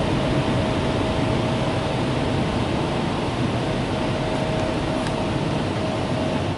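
Car wash dryer blowers running steadily, a loud rush of air with a steady whine, heard from inside the car; they cut off abruptly at the very end.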